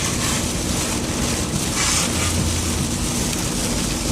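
A car driving through rain: a steady rush of rain and wet road noise with a low drone underneath.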